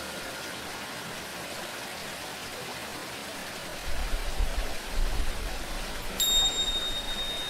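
Running water hisses steadily as the last ring of a Tibetan singing bowl fades away. A low rumble swells in for about two seconds. About six seconds in, a pair of tingsha cymbals is struck and rings out with a single high, clear tone.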